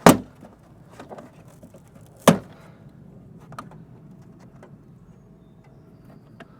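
Two loud, sharp knocks a little over two seconds apart, with smaller clicks and rattles between: a plastic car trim panel being pulled and worked loose from its clips.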